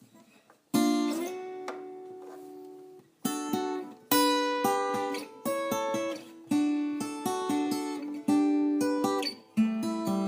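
Acoustic guitar music: a chord rings out about a second in and fades, then chords and plucked notes follow at an easy pace.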